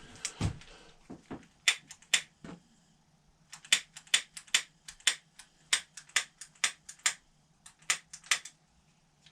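A run of sharp, short clicks, scattered at first and then about two to three a second, over a faint steady hum.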